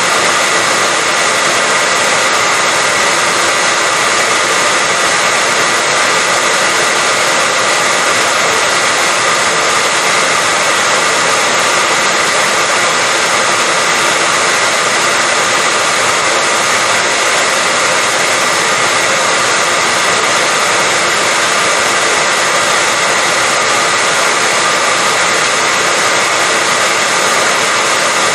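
Hair dryer running continuously at a steady speed: an even, unchanging rushing hiss of blown air with a faint steady whine from the motor.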